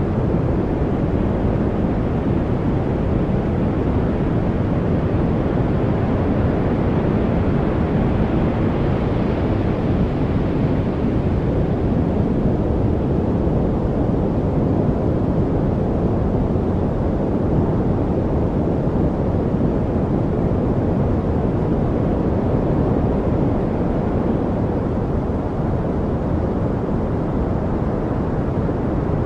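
Steady, unbroken rushing noise of a white noise track, deep rather than hissy, with a slight brightening about ten seconds in.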